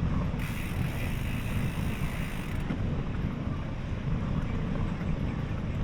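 Steady low rumbling noise of wind on the microphone and road traffic, heard from a moving bicycle, with a brighter hiss from about half a second to two and a half seconds in.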